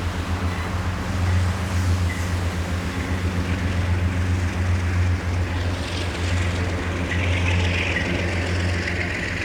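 A train running: a steady low engine hum under a rushing noise, with a higher hiss that swells from about six seconds in.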